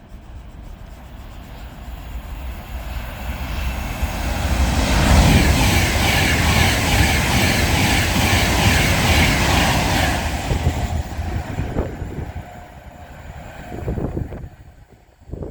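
A train passing by: the rail noise builds over the first few seconds, is loudest from about five to ten seconds in, then fades away.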